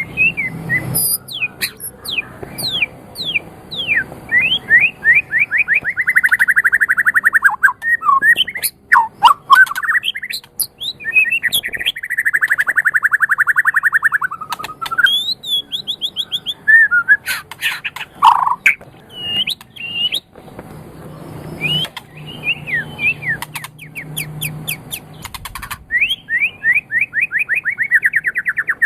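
White-rumped shama (murai batu) singing a loud, varied song: rapid trills of fast repeated notes, quick whistled notes that rise and fall, and sharp clicks. The longest trills come about six and twelve seconds in.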